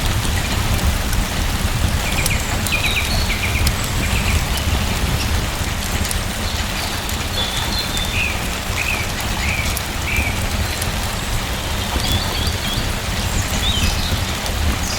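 Steady rain pattering, with a deep low rumble under it and scattered sharp ticks. Short bird chirps come in small runs several times.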